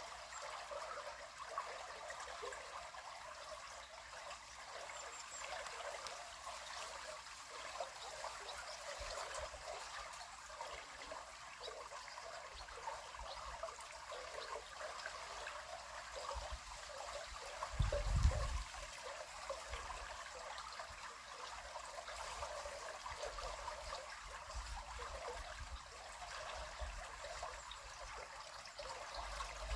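River water flowing steadily, a continuous rushing trickle. About two-thirds of the way through, a brief low rumble rises over it and is the loudest moment.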